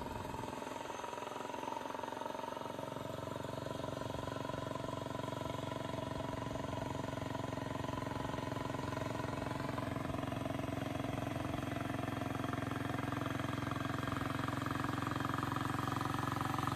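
A small engine running steadily, its pitch creeping up slightly over the first few seconds and then holding.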